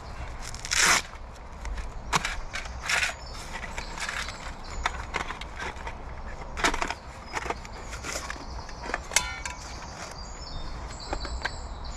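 Camping gear being rummaged through and handled: a string of irregular rustles, clicks and light knocks as items are moved and taken out, with a few faint bird chirps in the background near the end.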